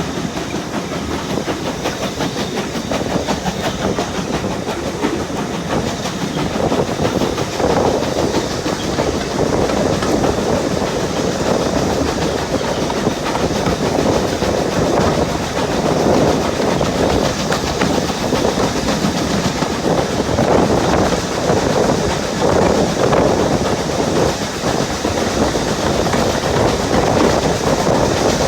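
Train running along the track: a steady rumble of wheels on rail with a clickety-clack over the rail joints, growing a little louder about seven seconds in.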